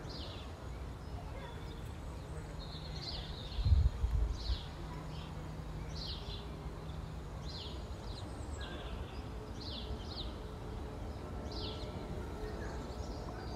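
A small bird chirping over and over in short, quickly falling notes, above a steady low background rumble. About four seconds in, a brief low thump breaks in.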